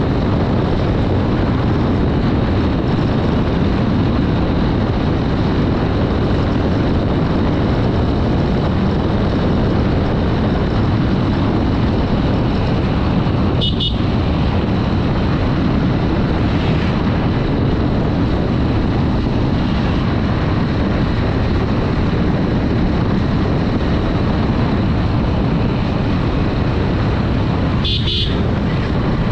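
Steady wind rush and running noise from a Honda Dream 110 motorcycle on the move. A horn beeps briefly about halfway, and again, a little longer, near the end.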